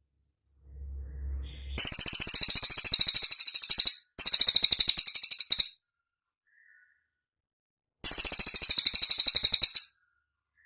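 A cililin songbird singing three loud, rapid, high-pitched trills, each made of quick repeated notes. The first starts about two seconds in and runs into a second straight after; the third comes near the end. A low rumble is heard just before the first trill.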